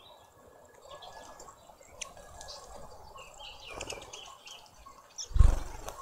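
Small birds chirping at a garden seed feeder, a few short high chirps scattered through, with a single loud, short thump a little after five seconds.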